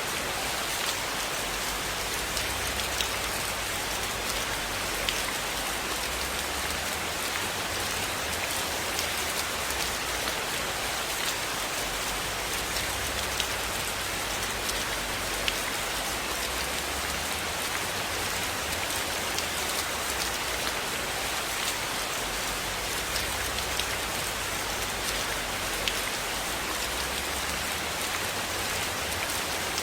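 Steady rain falling, an even hiss with scattered sharp pops from a wood fire crackling.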